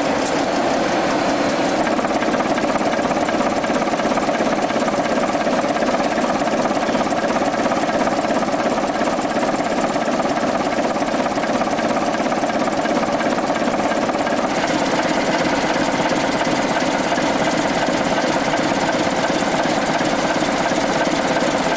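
Steam locomotive W 192 running, a loud, steady mechanical clatter without a break.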